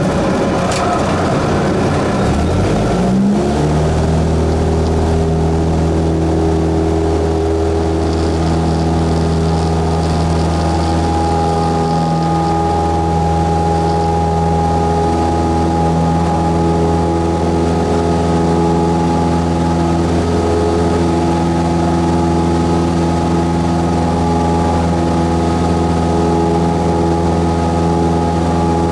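Cessna 172S's four-cylinder piston engine and propeller running. About three seconds in the pitch rises as the engine speeds up, then it holds a steady drone.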